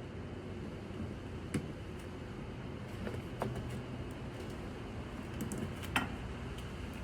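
A few sharp small clicks and taps as fuel-line clamps and hoses are worked off a snowmobile fuel pump by hand, the loudest near the end, over a steady low background rumble.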